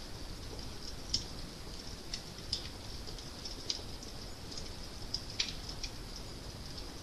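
Fire crackling: irregular small sharp pops and snaps, a clear one every second or so with fainter ones between, over a steady low rumble.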